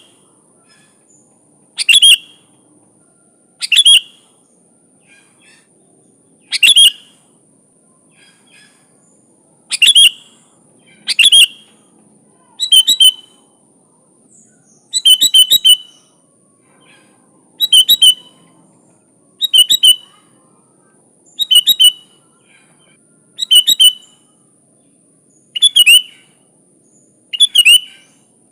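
Sooty-headed bulbul (kutilang) singing short, bright chirping phrases, about one every two seconds. A faint steady high-pitched tone runs underneath.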